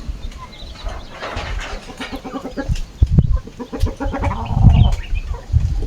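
Chickens clucking, with short calls scattered throughout, over a low rumble that swells twice, about three and about four and a half seconds in.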